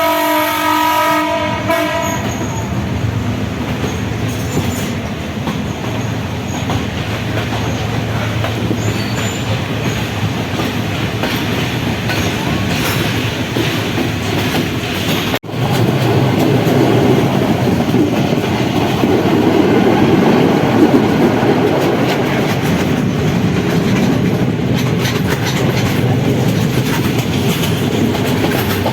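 Passenger train running along the line, with a steady rumble and the clatter of its wheels over the rails. A horn sounds briefly in the first couple of seconds. About halfway there is a sudden break, and after it the running is louder.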